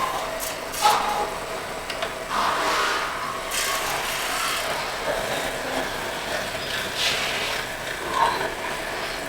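Vintage metal lathe running with a faint steady hum, while a hand tool scrapes against the spinning aluminium in irregular bursts.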